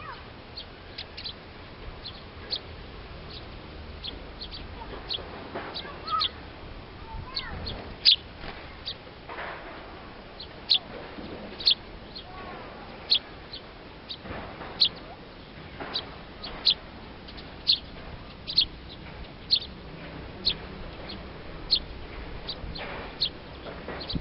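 Small wild bird giving short, sharp, high-pitched chip calls over and over, about one or two a second, some louder than others.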